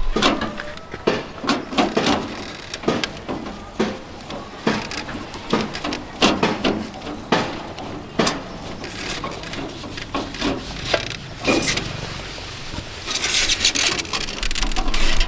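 Hand repair work on a water dispenser: irregular knocks, clicks and rubbing as parts are handled, with a short burst of hiss near the end.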